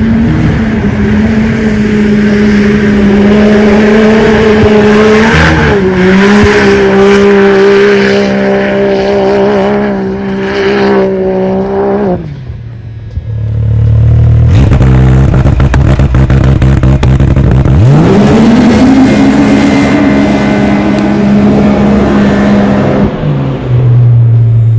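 Motor vehicle engine held at high, steady revs for about twelve seconds, then cut off abruptly. After a brief lull a second engine runs loudly, revs up about eighteen seconds in and holds high revs, dropping to a lower pitch near the end.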